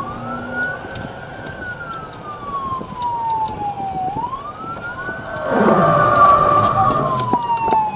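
Police siren wailing in a slow rise and fall, each sweep taking about four seconds. From about halfway through, a louder rush of vehicle noise joins it.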